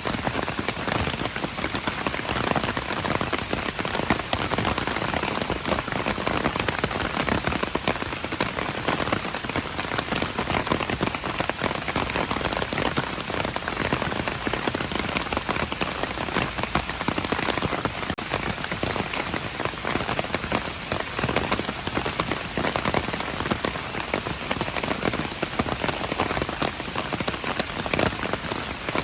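Steady rain falling, dense patter of drops hitting hard surfaces with no let-up.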